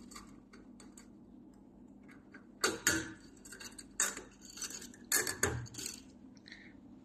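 Metal parts of a wet glue labeling machine clinking and knocking as they are taken apart and handled: a few sharp knocks, a pair near three seconds in, one around four seconds, and another pair past five seconds.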